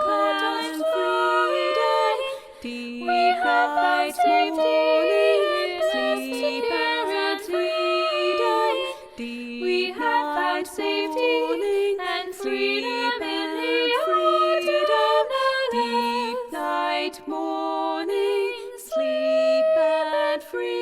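Unaccompanied singing of a slow, repeating melody, the same chant-like refrain sung again and again.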